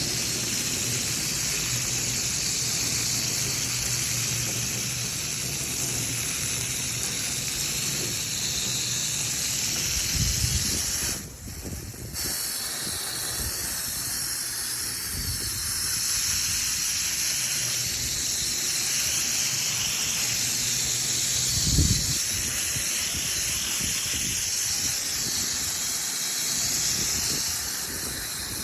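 A steady hiss of water spraying from a hose nozzle onto air-conditioner coils, rinsing off foaming coil cleaner. The spray cuts off for about a second around the middle, then starts again.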